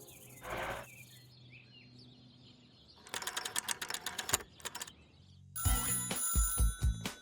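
Cartoon telephone bell ringing in a rapid run of strikes for about two seconds, then a music cue with a pulsing bass comes in.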